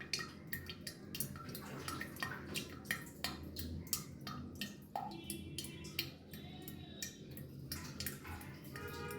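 Water dripping: irregular drops landing a few times a second, over a steady low hum.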